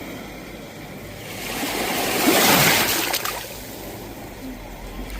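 Sea waves breaking on the shore: one wave swells and crashes about two seconds in, washes out and fades, and the next begins to build near the end.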